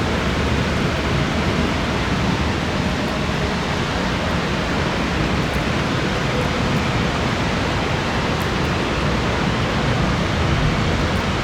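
Thunderstorm downpour with gusty wind: a steady, even rushing noise with no breaks.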